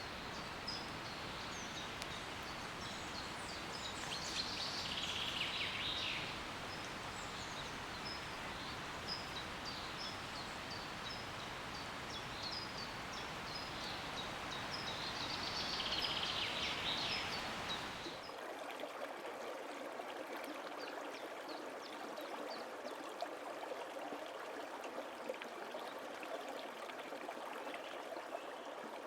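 Steady rush of a flowing stream with many small birds chirping high above it, two louder bird calls standing out along the way. About two-thirds of the way through, the sound changes abruptly to a thinner trickle without the low rumble, with fewer chirps.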